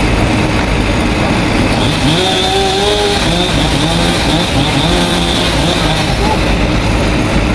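Small two-stroke chainsaw engine running steadily, with a constant high whine over a low rumble.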